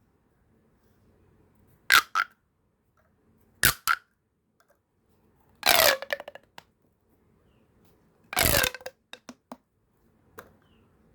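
Plastic pop tube toys being stretched and squashed: a quick double pop about two seconds in and a single pop near four seconds. Two longer pops follow, about six and eight and a half seconds in, each trailing off in a rattle of quick clicks, then a faint last pop near the end.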